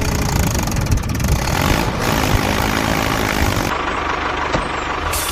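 A motor running steadily with a loud, noisy hum; the high hiss drops away near the end.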